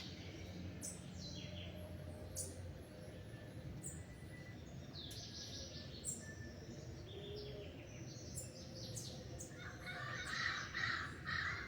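Birds at dawn: several small birds chirping in short, high, falling notes, with louder, harsh calls starting about ten seconds in.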